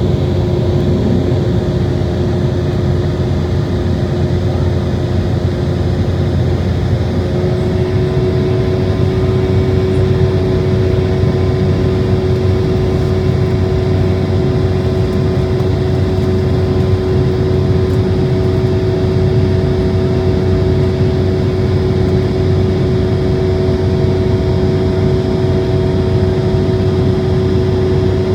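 Jet airliner engines heard from inside the passenger cabin: a loud, steady rumble with a few steady whining tones over it. About eight seconds in, the tones rise slightly in pitch as the engine power changes.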